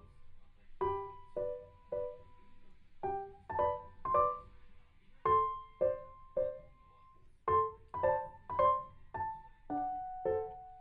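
Background music: a gentle piano melody of single struck notes that ring and fade, played in short groups of two or three with brief pauses between.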